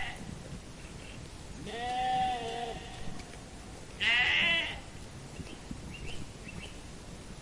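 Sheep bleating twice: a longer call about two seconds in, then a shorter, louder one about four seconds in.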